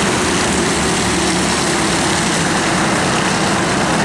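Several mini sprint race cars running at speed together around an oval track, a loud steady blend of engines with no single standout event.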